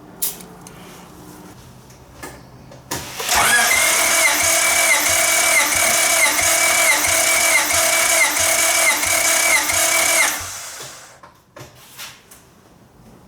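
Starter motor cranking a Honda Civic's four-cylinder engine for about seven seconds, with a whine that rises and falls about twice a second, during a compression test. The cylinder reads just over 120 psi, in line with the others. Its burnt valves have been replaced. A few clicks come before the cranking.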